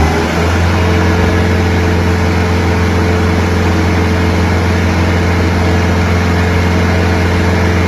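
Forklift engine sound effect: a heavy engine finishes revving up just after the start, then idles steadily and loudly at a constant pitch.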